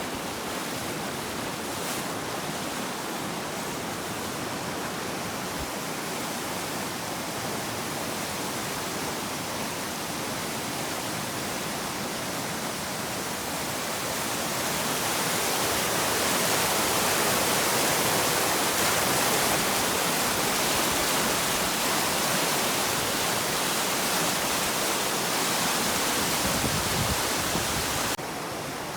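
Rushing water of a river in flood, swollen by typhoon rain: a steady rush with no distinct events. It grows louder about halfway through and drops suddenly near the end.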